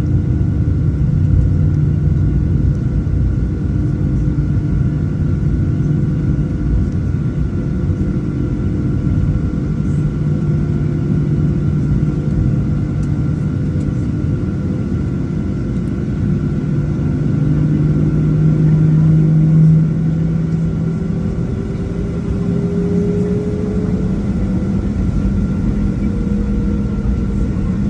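Cabin noise inside a Boeing 737-700: the steady rumble of its CFM56-7 turbofan engines, with a few constant tones over it and one tone that rises slowly about twenty seconds in.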